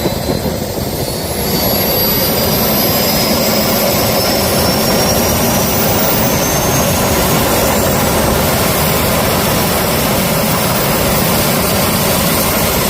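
Jet engine running loudly, a steady rushing noise with a high turbine whine that slowly rises in pitch as the engine spools up. It gets louder about a second and a half in.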